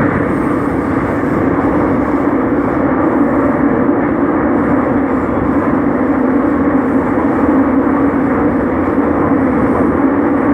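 Seoul Subway Line 5 train running steadily through its tunnel: an even, continuous rumble of wheels on rail and traction motors.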